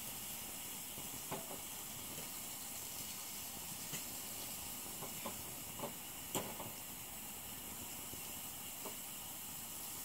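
Onions and mushrooms frying in a stainless steel pan on a propane camp stove: a steady sizzle and hiss, with a few light clicks of the stirring utensil against the pan.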